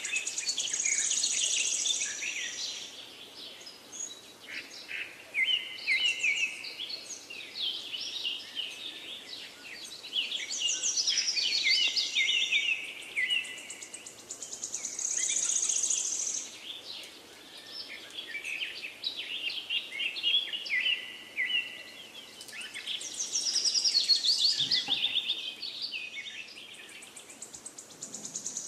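Birds singing: phrases of quick chirps and stepped, falling trills come every few seconds, some topped with a high buzzy trill, with little in between.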